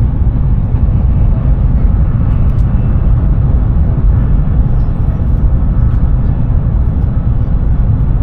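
High-speed train running at speed: a loud, steady low rumble with no distinct tones.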